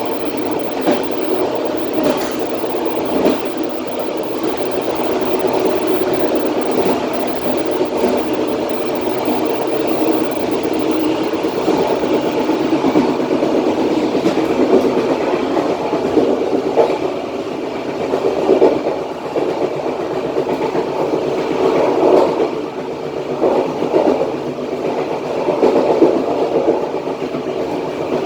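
Passenger train running along the track, heard from the rear of the train: a steady rumble of wheels on rails with irregular clacks and knocks from the track.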